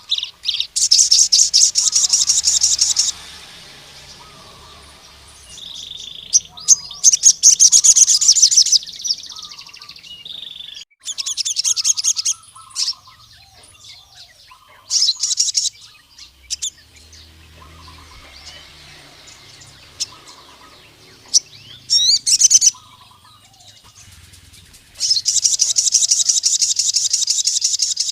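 Male crimson sunbird (sogon) singing in loud bursts of very rapid, high, buzzy repeated notes, each burst lasting one to three seconds, six times over. This is the vigorous song of a male calling out rival males. Fainter, lower chirps sound between the bursts.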